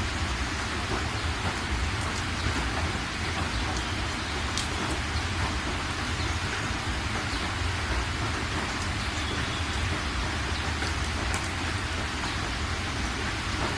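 Steady rain falling, an even wash of noise with an occasional sharper drop tick.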